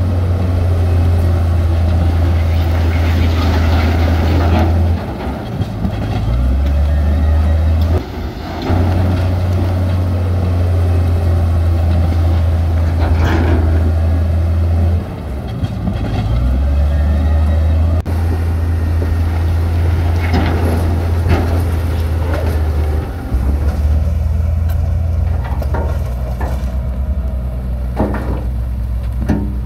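Heavy diesel construction machinery running under load, its low engine note stepping up and down every few seconds, with a few sharp knocks scattered through.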